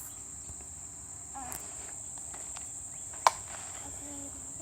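Outdoor insect chorus, a steady high-pitched trill, typical of crickets in the surrounding grass. A single sharp click or knock stands out just past three seconds in.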